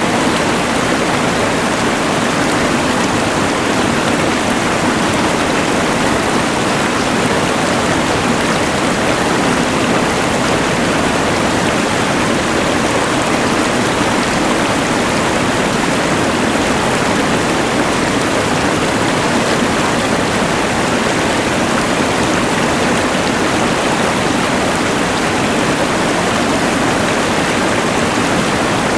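A rushing mountain river mixed with the hiss of a LectroFan white noise machine: one even, unbroken rush of noise.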